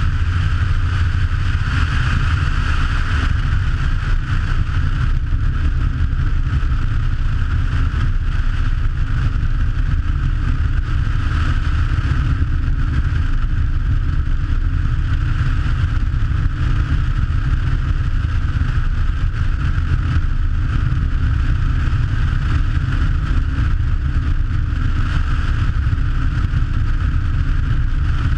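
Twin engines and propellers of a Che-22 Korvet amphibious seaplane running in a steady, unbroken drone.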